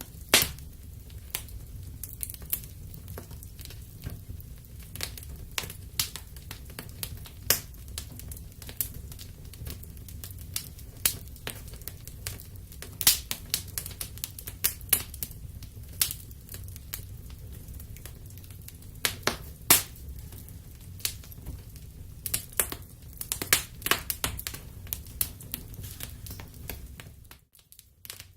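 Wood fire in a fireplace crackling: irregular sharp pops and snaps over a low steady rumble, dropping out for a moment near the end.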